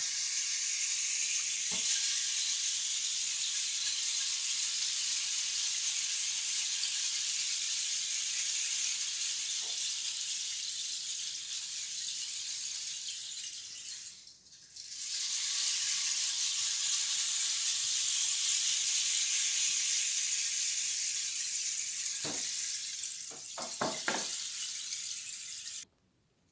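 Homemade long rain stick tipped over twice, its falling filling giving two long, even rushing hisses, the first about fourteen seconds and the second about eleven, with a short break between them. A few faint knocks of handling come near the end.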